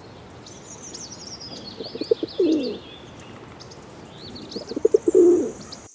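Pigeon cooing: two phrases, one about two seconds in and one near the end, each a few short pulses then a longer falling coo. Small birds chirp faintly and high in the background.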